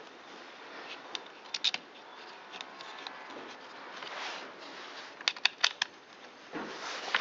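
Hands handling a chainsaw's plastic body and small mounting screws: sharp light clicks, a group of three about a second and a half in and a quick run of about five around five and a half seconds, between soft rustling as the saw is moved.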